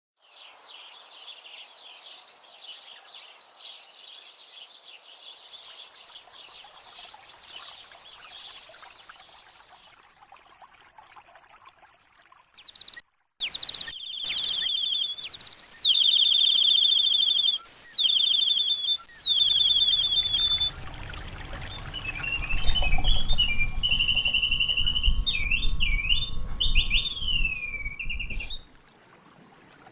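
Many small birds chirping together. After a short gap come loud repeated trilled bird calls, then whistled gliding phrases over a low rumble.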